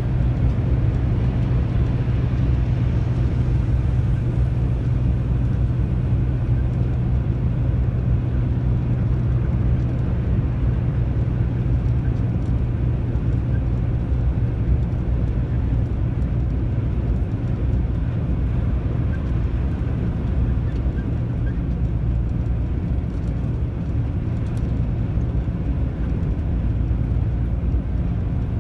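Lorry's diesel engine running steadily at cruising speed, a continuous low drone mixed with road and tyre noise.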